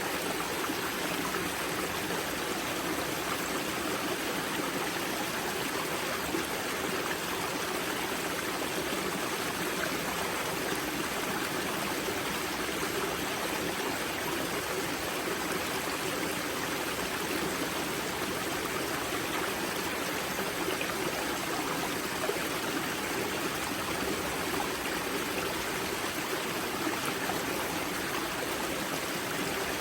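Spring-fed river water rushing and splashing steadily over rocks at the Grza river's wellhead, an unbroken even rush.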